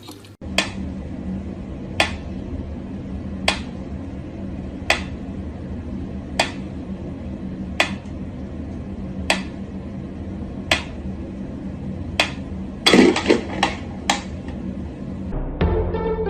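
Sharp knocks or taps on something hard, about one every one and a half seconds, over a steady low hum, with a quick cluster of knocks a little before the end.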